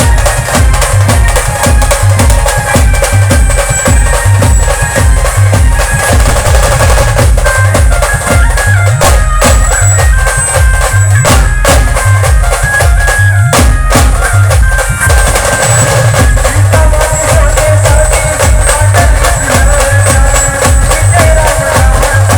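Loud band music: drums beating a fast, steady rhythm with a melody line over it.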